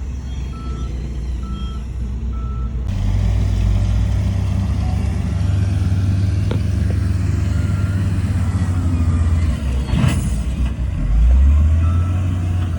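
Heavy diesel earthmoving machinery running, with a reversing alarm beeping about twice a second. The beeping stops about three seconds in, leaving a heavier steady engine drone. A short sharp noise comes about ten seconds in, and faint beeping returns near the end.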